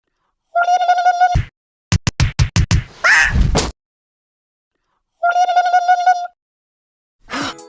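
Edited sound effects broken by dead silence: a steady buzzing beep-like tone that plays twice, with a quick run of sharp knocks and a short high squeal between the two beeps. Music starts near the end.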